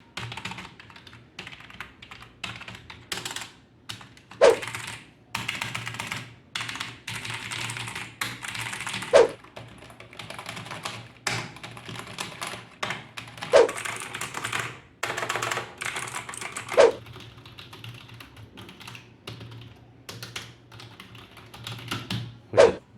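Typing on a clicky mechanical keyboard: fast runs of sharp key clicks with short pauses, and about five louder, heavier key strikes every four or five seconds.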